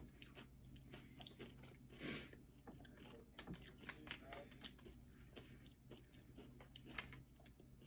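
Faint chewing of crunchy Doritos nachos: an irregular run of small crunches and clicks, with a slightly louder bite about two seconds in.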